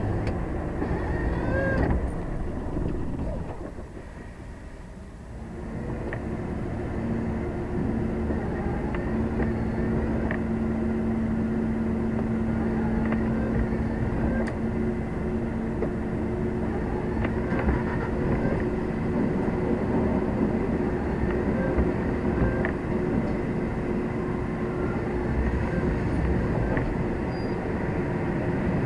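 Lorry cab interior: the truck's diesel engine running with cab and road noise as it moves, steady apart from a brief drop in level a few seconds in.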